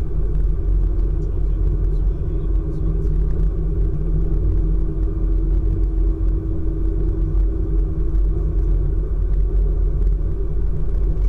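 ICE high-speed train running, a steady low rumble of wheels and running gear, with a faint steady hum from about two seconds in until near nine seconds.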